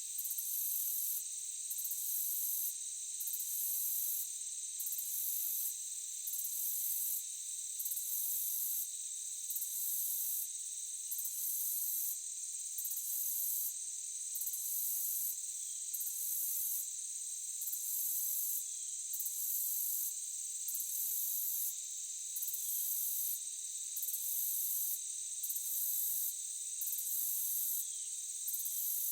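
Forest insect chorus: crickets trilling steadily at several high pitches, over a higher buzz that stops briefly and resumes about every second and a half.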